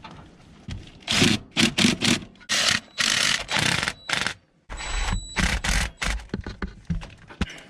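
Hands and parts scraping and rubbing against metal engine parts in a series of short bursts, with a few dull knocks in the second half, while fuel injectors and their clips are being fitted.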